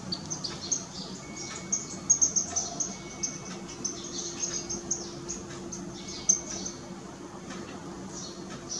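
Indian silverbills giving short, high chirping calls in quick runs, busiest about two seconds in. There is a sharp tap about six seconds in, over a steady low hum.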